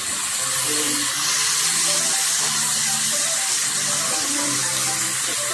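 Julienned sweet potato and carrot sizzling steadily in hot oil in a wok as they are stir-fried.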